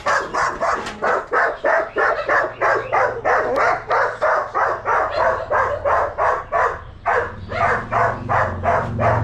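A dog barking rapidly and without pause, about three to four barks a second, with a low hum underneath that grows louder near the end.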